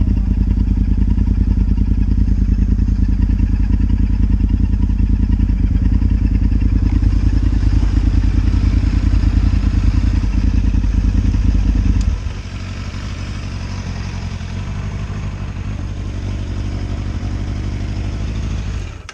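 Motorcycle engine running under way with a fast low pulsing beat. About twelve seconds in it drops to a quieter, lower level and keeps running.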